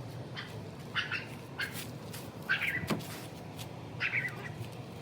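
Short, high-pitched animal calls repeating every half second to a second over a low background hum, with one sharp click about three seconds in.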